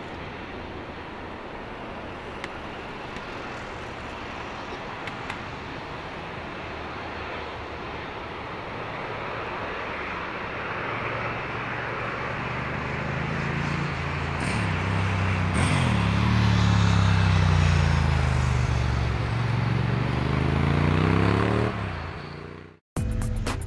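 Boeing 777-300ER's GE90 turbofans at takeoff thrust, a steady jet roar that builds to its loudest over several seconds, with a low hum that sweeps up and down in pitch as the aircraft passes. The sound cuts off suddenly near the end.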